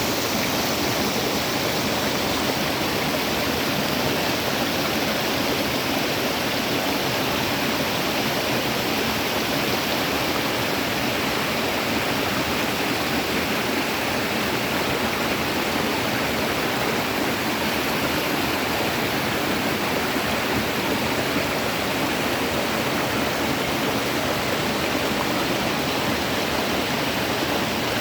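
Running water rushing steadily, an even hiss of a stream or cascade with no change throughout.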